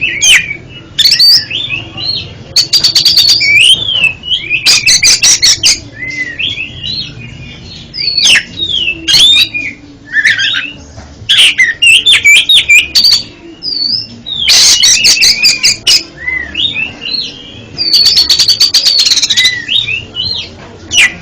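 Oriental magpie-robin (kacer) singing a loud, varied song of sweet whistled phrases, broken several times by bursts of fast rattling notes.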